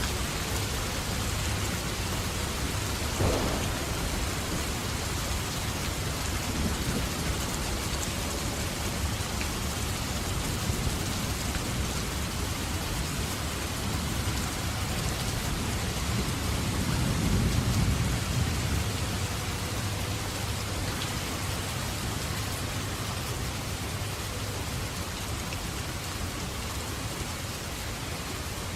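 Steady rain with thunder: a sharp crack about three seconds in, then a low rolling rumble that swells and is loudest around two-thirds of the way through.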